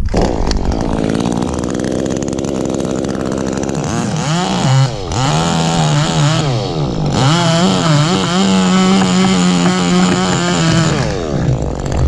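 Chainsaw engine revving: the pitch climbs and drops in repeated swings, holds high for a few seconds, then falls back near the end.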